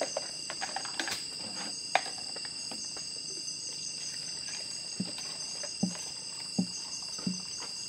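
Steady high-pitched chorus of insects such as crickets, with a couple of sharp clicks early on and a few short, low knocks near the end.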